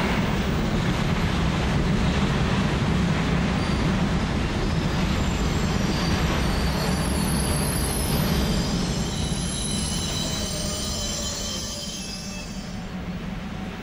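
Freight train rolling past with lorries loaded on its wagons: a steady heavy rumble of wheels on rail, with thin high-pitched wheel squeal over it through the middle. The sound eases off near the end.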